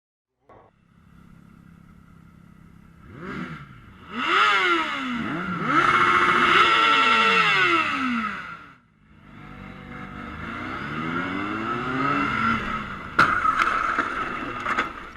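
A vehicle engine accelerating hard, its pitch climbing and dropping several times as it shifts through gears, then revving up again. Two sharp knocks come near the end.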